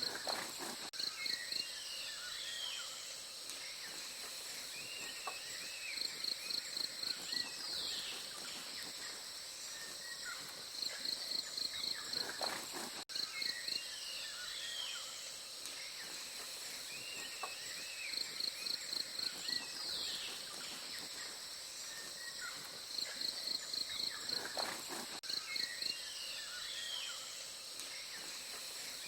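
Forest ambience: a steady high insect drone, with a short burst of rapid high chirping pulses every few seconds and scattered bird chirps and falling whistles.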